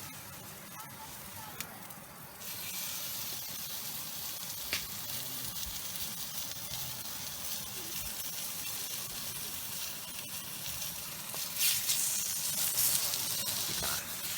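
Beef belly sizzling in a frying pan over a campfire. The hiss starts suddenly about two and a half seconds in, as the meat goes into the hot pan, and swells louder near the end.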